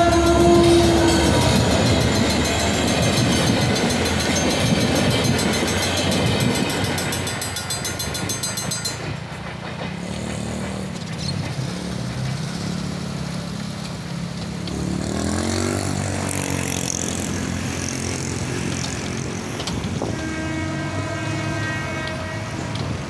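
A GT22CW-2 diesel locomotive finishes a horn blast about a second in, then rumbles through the level crossing. The crossing's rapid warning bell rings over it and stops suddenly about nine seconds in, leaving quieter traffic noise. Another horn sounds about twenty seconds in.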